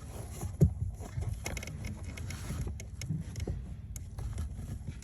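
Cabin pollen filter being worked out of its plastic housing under a car's glove compartment: scattered clicks and scrapes of plastic, with one sharp knock about half a second in, over a low steady rumble.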